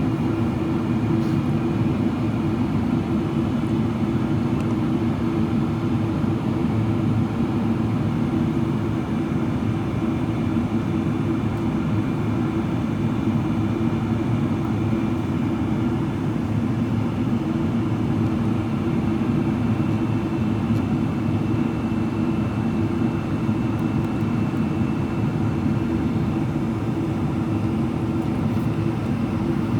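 Steady cabin noise inside a Boeing 777-300ER in descent: a constant rush of airflow and GE90 engine noise at an even level throughout.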